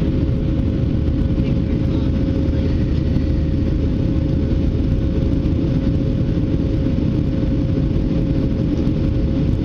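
Boeing 737 jet engines running steadily in flight, a constant low roar with a steady hum tone on top.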